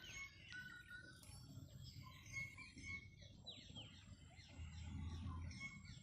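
Small birds chirping and calling, with many short chirps, quick falling whistles and a few held notes. A brief low rumble comes in about five seconds in.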